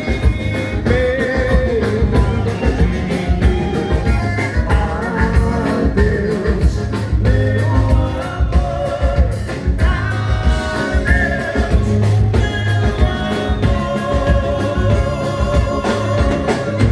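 Live band playing a vanera, a fast gaúcho dance tune, with a steady beat under a sustained melody line.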